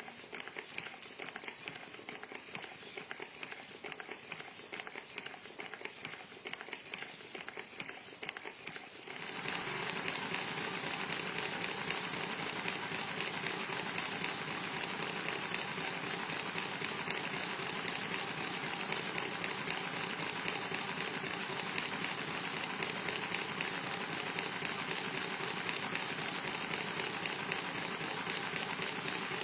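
CNC milling machine cutting metal: a dense, steady crackle of the cutter working with a faint steady whine, getting louder about nine seconds in.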